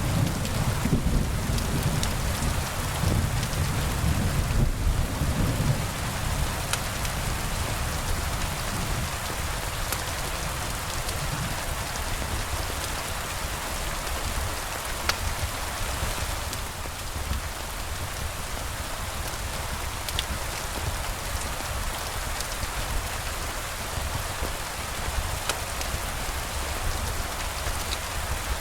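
Steady rain falling, with a low rumble of thunder that dies away about six seconds in. Occasional sharp ticks stand out over the rain.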